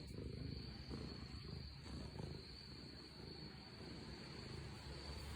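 Domestic cat purring faintly, a low rough rumble.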